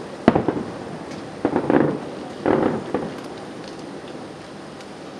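Distant aerial fireworks shells bursting with echoing booms: one bang just after the start, a quick run of reports about one and a half to two seconds in, another cluster at about two and a half seconds, then a louder sharp bang right at the end.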